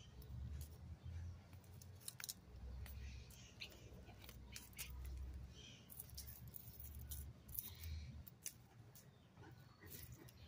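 A bird singing faintly, a few short calls spaced a second or more apart, with scattered sharp clicks and a low rumble on the microphone.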